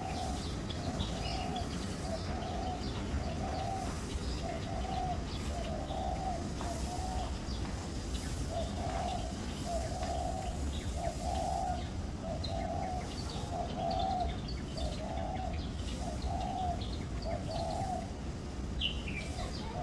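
A bird calling a long series of evenly spaced low cooing or hooting notes, about one a second, with a short break about eight seconds in. Faint higher chirps from other birds are mixed in.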